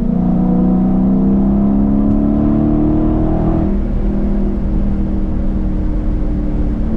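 Dodge Challenger's engine and exhaust under acceleration, the pitch rising steadily. About three and a half seconds in, the pitch drops suddenly, then holds steadier and lower.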